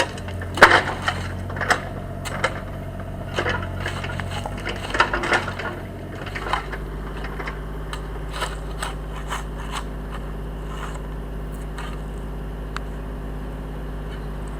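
Excavator engine running steadily while its bucket works at buried wooden railway ties, giving a string of knocks and clunks over the first six seconds or so, after which only the engine is heard.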